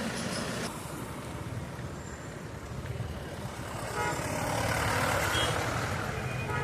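Road traffic noise, a steady rumble of passing vehicles, with a vehicle horn sounding briefly about four seconds in.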